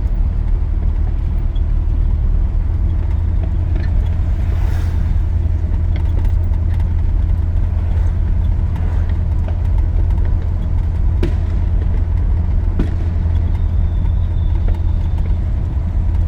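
Steady low drone of a 1983 GMC C2500 pickup heard from inside the cab while it drives along: engine and road noise at an even speed.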